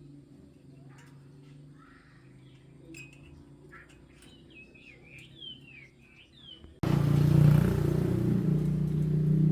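Small birds chirping in quick, varied calls over a faint low hum; about two-thirds of the way in, a loud steady sound cuts in abruptly and drowns them out.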